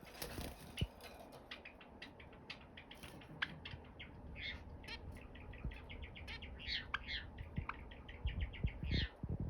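Java sparrow making a quick run of short ticking notes, about seven a second, broken by a few longer chirps.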